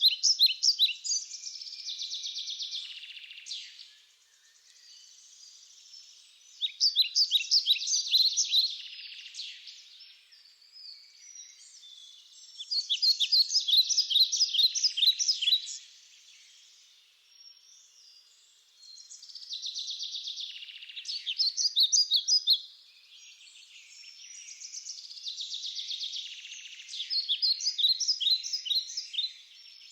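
A songbird singing a fast, high, trilled song of about two to three seconds, repeated roughly every six seconds, five times in all, with fainter bird calls between songs.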